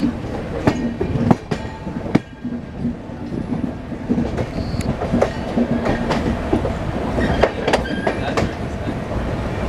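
A train running, with irregular clicks and knocks over a steady low rumble.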